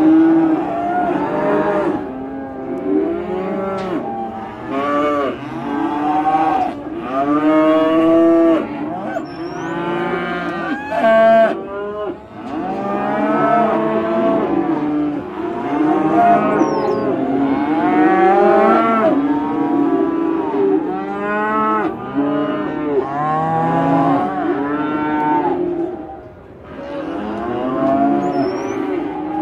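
Many cows mooing at once in a continuous chorus of overlapping calls, many of them rising and then falling in pitch.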